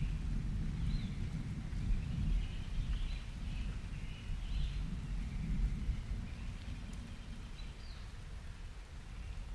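Distant thunder rumbling low and long, easing off over the second half, with birds chirping now and then above it.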